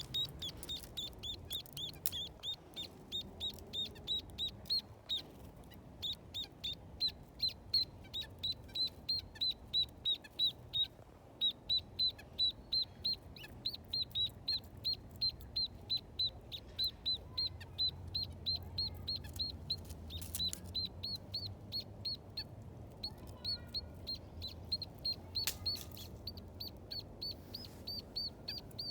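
A small bird calling over and over, a steady series of short high chirps at about three a second.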